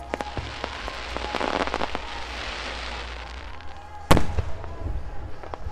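Aerial fireworks: a dense crackling shower for a couple of seconds, then a loud shell burst about four seconds in, followed by scattered smaller pops.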